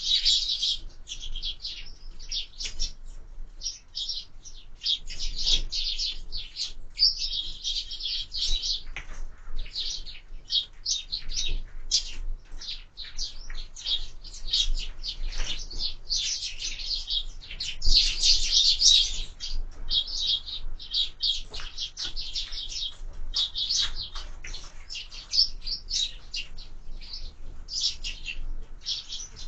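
Sparrows chirping at a feeder: many short, overlapping chirps in a continuous chatter.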